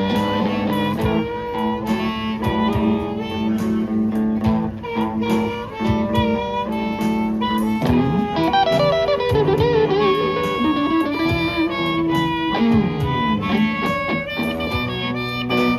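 Live band playing an instrumental break in a blues-style song, with guitar prominent. From about eight seconds in, a lead instrument plays a line of bent, wavering notes.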